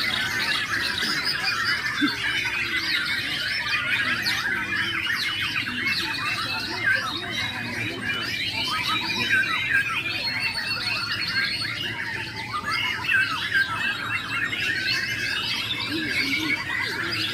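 Many caged songbirds singing at once, a dense, continuous mix of overlapping trills, whistles and chattering calls.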